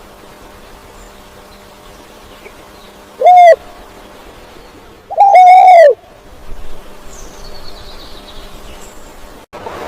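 A bird giving two loud, arching calls, a short one and then a longer one about two seconds later, with faint high chirps after.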